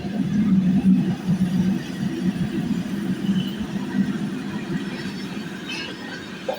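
Freight train passing close by: its wheels rumble and knock over the rails with a faint steady high-pitched wheel squeal. The rumble is loudest in the first couple of seconds and eases off toward the end.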